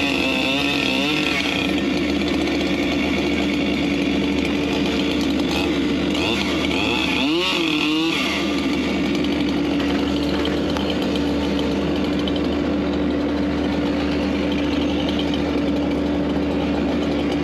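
An engine running steadily at high speed. Its pitch wavers up and down briefly just after the start and again about seven seconds in, then holds steady.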